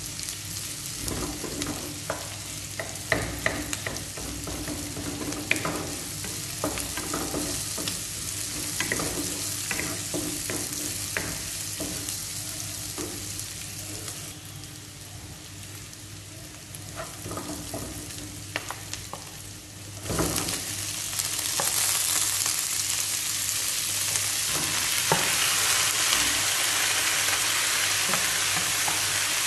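Garlic and onion sizzling in oil in a nonstick pan, with a wooden spatula scraping and tapping against the pan as it stirs. About two-thirds of the way through, chopped pork intestines go into the pan and the sizzling turns suddenly much louder and steady.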